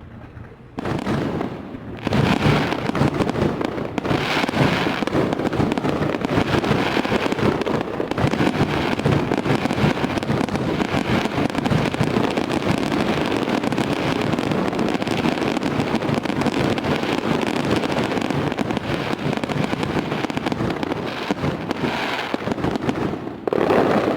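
Fireworks going off in a dense, continuous barrage of bangs and crackling. It starts suddenly, grows louder within the first couple of seconds, and dies away at the end.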